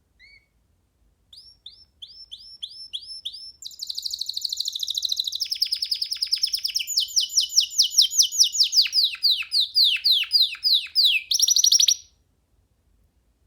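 Young domestic canary singing one long song phrase. It opens with spaced upward-curving notes, runs into a fast rolling trill, then a series of downward-sweeping notes, and ends on a short buzzy note that cuts off suddenly about twelve seconds in.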